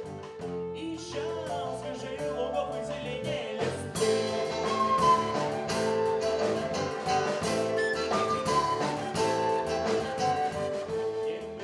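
Live rock band playing: guitar, bass and drums under a wavering lead melody, the band coming in louder with the drums about four seconds in.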